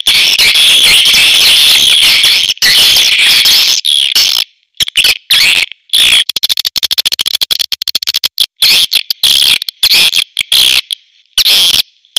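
Swiftlets calling: dense, rapid, high-pitched chittering and twittering, broken by short gaps. This is a recorded swiftlet call of the kind played to draw swiftlets into a swiftlet house.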